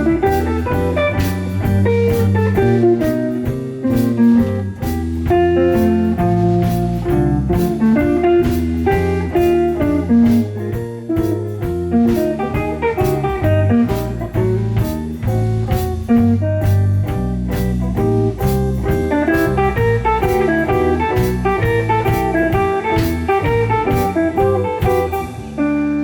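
A live pop-jazz ensemble plays a steady number led by guitar, over a strong bass line and regular percussion hits.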